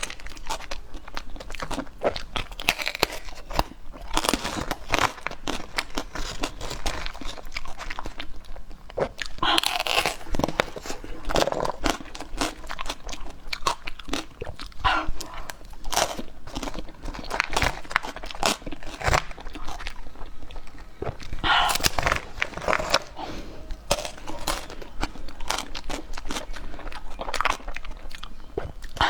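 Close-miked eating: repeated crunchy bites and chewing of a freshly demoulded set dessert, crackling irregularly throughout with a few louder bites.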